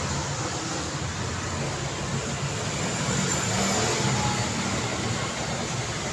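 Busy road traffic: a steady mix of vehicle engines and tyre noise, swelling a little about halfway through as traffic passes closer.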